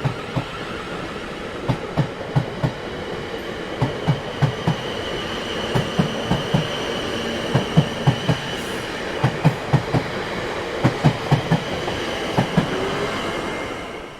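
Train wheels clattering over rail joints: clusters of two to four sharp knocks repeat over a steady rolling rumble, with a faint high whine through the middle. The sound fades away right at the end.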